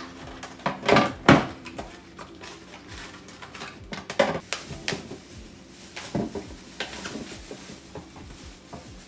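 Food containers and groceries being shifted around inside a packed refrigerator: a string of knocks and clatters, the loudest about a second in.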